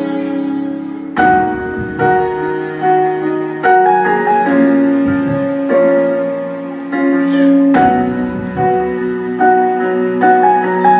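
Slow, gentle piano music: held chords under a simple melody, with a new note or chord struck about every second.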